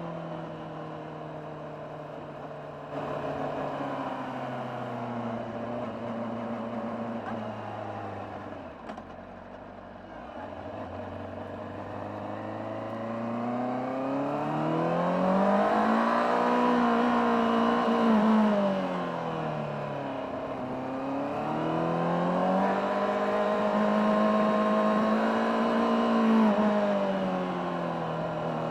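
Honda CBR600RR's inline-four engine, stock exhaust, heard on board while riding. The revs drop and it runs low for the first several seconds. It then pulls up to a higher note around the middle, eases off briefly, climbs and holds again, and eases once more near the end.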